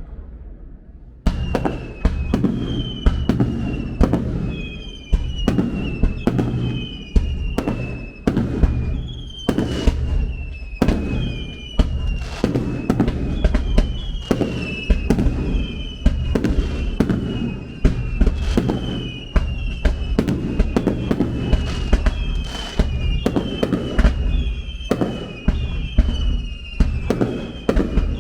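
Aerial fireworks bursting in quick succession: sharp bangs and low booms about every second, with a high falling whistle running over them.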